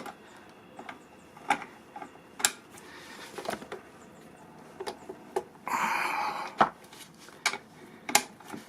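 Scattered sharp metallic clicks and knocks of hand tools as a bolt on the motorcycle's chain adjuster is tightened by hand, with a short rasping burst about six seconds in.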